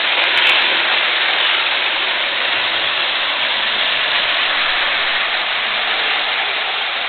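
Model train running along the layout's track, a steady rolling whir of its wheels and motor on the rails.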